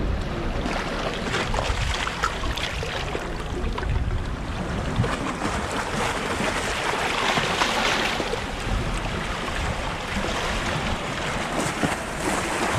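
Small waves washing onto a pebble shore, with wind rumbling on the microphone. One wash swells up louder about seven to eight seconds in.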